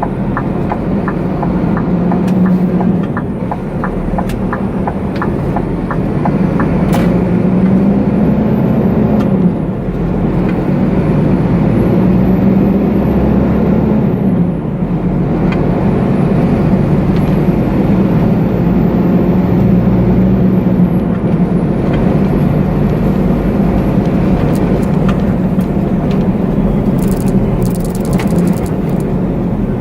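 A truck's engine running on the road, its pitch rising and falling several times as it pulls and changes gear. A run of quick, regular ticks sounds over it for the first several seconds.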